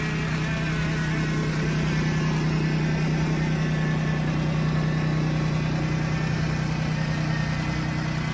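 Old Daihatsu Hijet three-cylinder engine in a homemade three-wheeler, running steadily at idle with an even, unchanging note.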